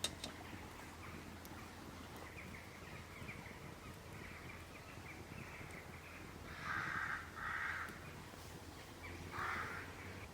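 A crow cawing three times, harsh calls about half a second to a second long, the last one after a short pause. A sharp snap at the very start and faint scattered crackling, typical of a campfire, sit underneath.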